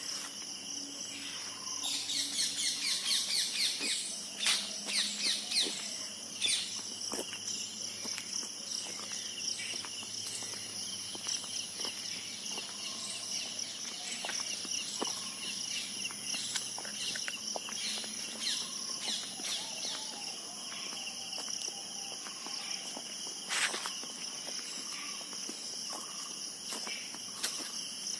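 Steady chorus of insects shrilling in several high-pitched layers, with a louder stretch of rapid chirping from about two to six seconds in and a few scattered clicks.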